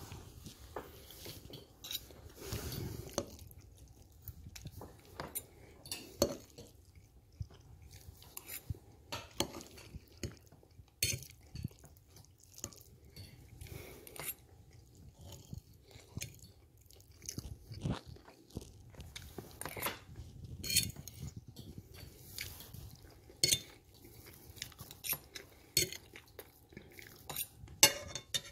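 Close-miked eating: irregular chewing, crunching and biting of fast food, with many small sharp mouth clicks.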